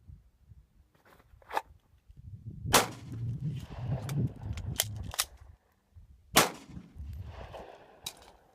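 A 9mm Glock 19 Gen4 pistol fires two shots about three and a half seconds apart, the loudest sounds, each followed by a short echo. Several fainter sharp cracks fall between and after them.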